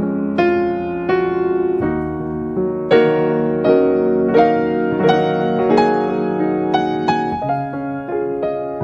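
Slow, gentle piano music: notes struck one by one over sustained chords.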